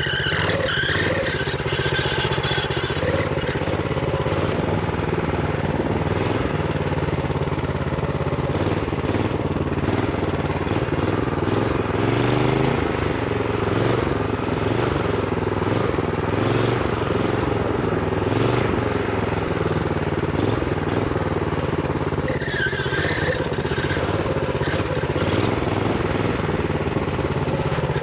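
Honda GX390 single-cylinder four-stroke minibike engine running under load at low revs, held back by a throttle stop, its pitch rising and dipping a little as the throttle changes. Brief high squeals come near the start and again about 22 seconds in.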